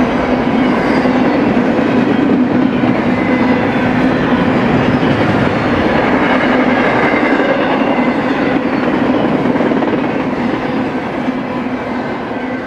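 Double-stack intermodal freight train rolling past, its loaded well cars clattering over the rail joints with a steady rumble and hum. It grows quieter near the end as the train moves on.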